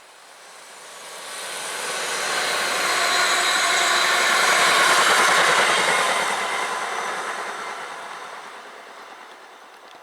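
A train passing on the main line: its rumble and rail noise swell up over the first few seconds, are loudest about halfway, then fade away.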